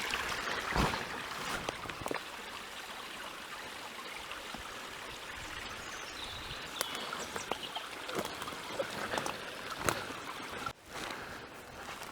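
A small stream running steadily over stones, with a few scattered short knocks and snaps.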